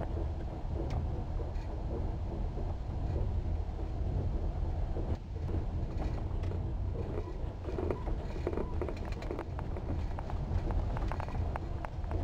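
Steady low rumble of a passenger train carriage running, heard from inside a compartment, with scattered clicks and knocks that thicken in the second half.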